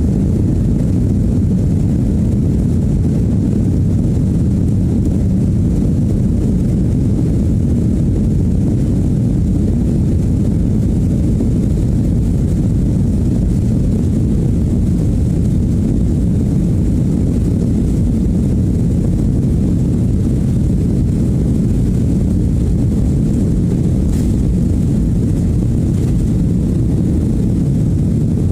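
Airliner cabin noise: the steady low rumble of jet engines and airflow, even and unchanging throughout.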